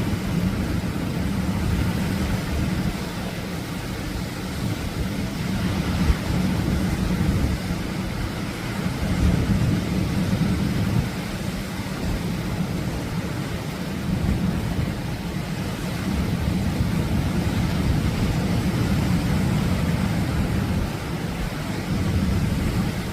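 Atlantic waves breaking on a beach: a continuous rush of surf that swells and eases every few seconds over a heavy low rumble.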